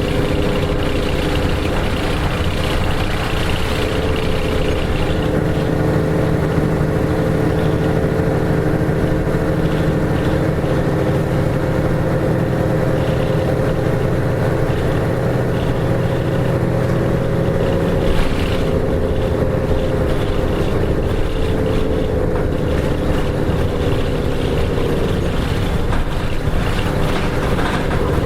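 Nissan Diesel KK-RM252GSN medium-size city bus's diesel engine running at steady, moderate revs while the bus drives, over a haze of road noise, with the engine note drifting slightly up and down.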